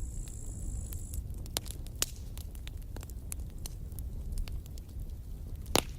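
Campfire burning with a steady low rumble and irregular crackles and pops from the burning wood, the loudest pop near the end. A thin high hiss sounds for about the first second.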